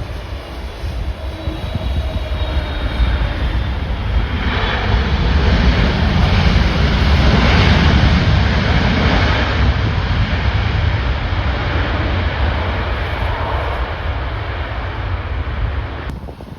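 Jet airliner landing, its engines growing louder to a peak about halfway through and then fading, with a faint high whine as it approaches. Strong gale wind buffets the microphone throughout, and the sound cuts off suddenly near the end.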